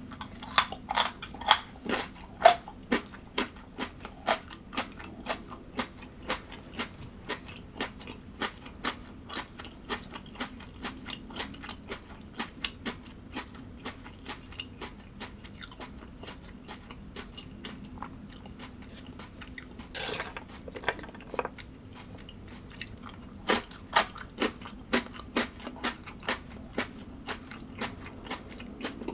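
Close-miked chewing of crunchy food, sharp crunches coming about twice a second, with a short noisier rustle about twenty seconds in. A steady low hum runs underneath.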